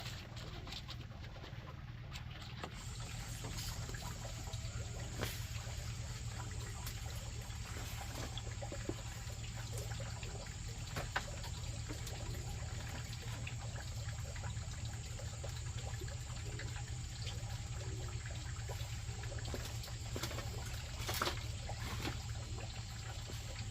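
Water trickling steadily, with scattered small clicks and taps.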